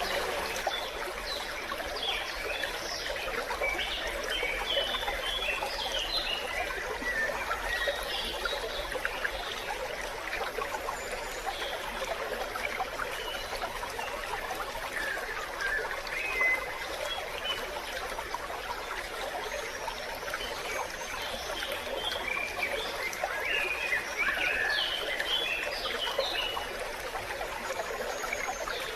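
Small stream running and trickling steadily, with scattered short high notes over the flow, thickest a few seconds in and again in the last third.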